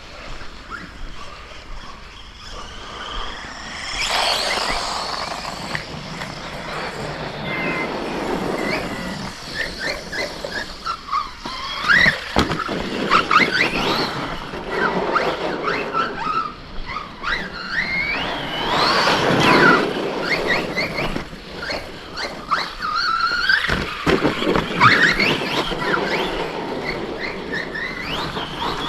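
Brushless electric RC trucks driving hard on dirt: motor whine rising and falling in short glides with the throttle, over the rough noise of the tyres, in repeated surges.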